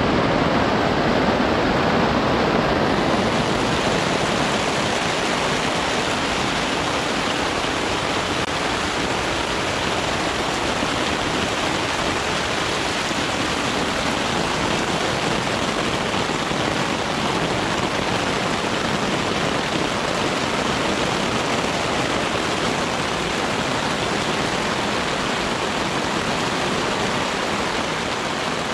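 Heavy thunderstorm rain pouring steadily, a dense even hiss with no thunderclap standing out.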